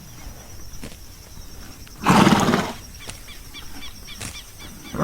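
Horse snorting: a single noisy blow of breath lasting under a second, about two seconds in.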